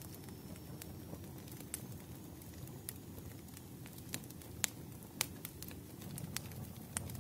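Wood fire crackling: irregular sharp pops and snaps over a steady low rumble, with the loudest pops a little past the middle.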